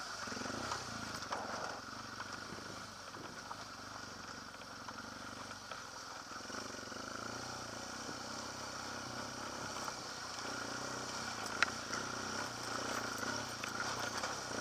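BMW GS adventure motorcycle's engine running steadily at low speed as the bike climbs a loose, rocky track. A single sharp knock comes near the end.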